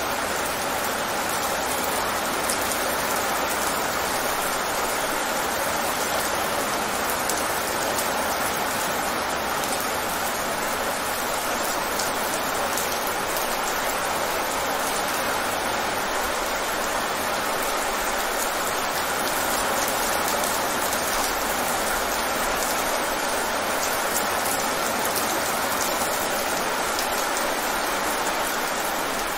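Rain falling fast on wet pavement: a steady, even hiss of drops splashing into the surface water, with many small, sharp drop ticks on top.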